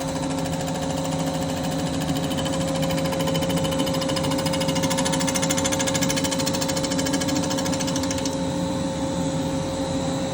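Machine tool skimming a jet-ski crankcase's joint face flat: a steady motor hum with a fast, even chatter of the cutter on the metal. The chatter thins out after about eight seconds.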